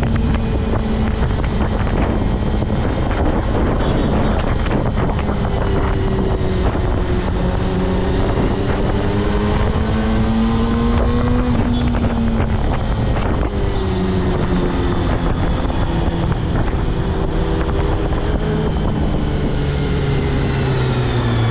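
Honda CBR250RR MC22 inline-four engine running while riding, its pitch rising and falling with the revs and dropping near the end as it slows, under steady wind rush on the helmet camera.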